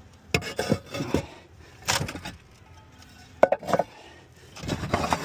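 Roof tiles being handled, knocking and scraping against each other in several short clusters of clatter, with quieter gaps between.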